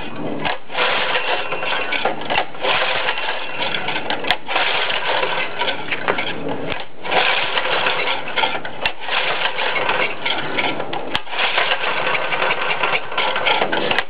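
Honda GX140 single-cylinder engine running rough on starter fluid, with a carburetor that won't let it run right. The sound drops away briefly a few times, about half a second in, at two and a half seconds, near seven seconds and at eleven seconds.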